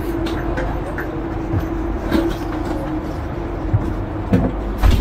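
Steady running hum of a stationary passenger train heard inside the carriage corridor, one low held tone over a rumble. A few short knocks come through it, the loudest near the end.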